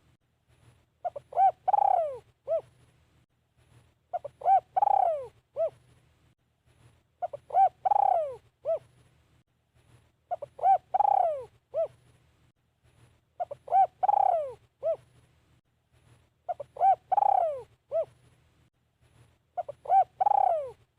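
Spotted dove cooing its repeated song phrase about every three seconds: a few short coos, a longer falling coo, then one short closing note, seven times over.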